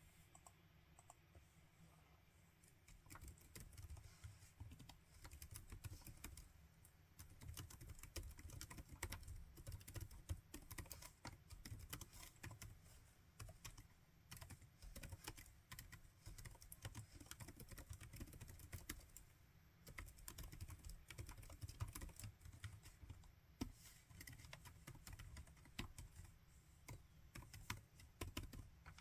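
Typing on a laptop keyboard: quiet, irregular key clicks in quick runs, beginning about three seconds in after a quieter start.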